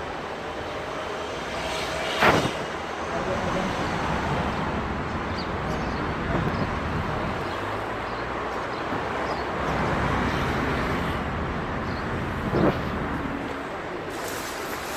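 Outdoor street noise with a steady rush of traffic, broken by two sharp knocks about ten seconds apart.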